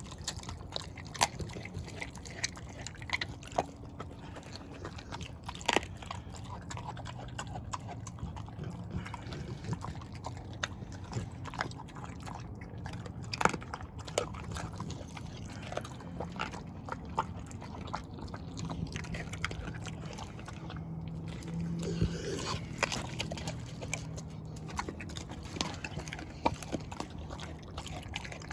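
American Bully dog chewing and crunching a raw Cornish hen, with irregular sharp cracks of bone through wet chewing.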